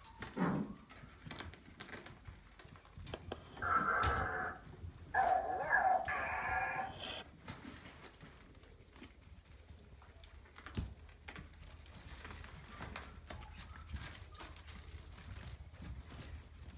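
Maltese puppy giving two drawn-out, high-pitched cries, the first about three and a half seconds in and the second, longer one about five seconds in.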